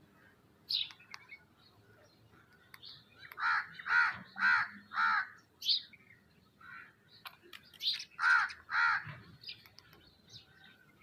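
Birds calling: a harsh call repeated four times in quick succession about three and a half seconds in, then twice more a few seconds later, with short higher chirps between.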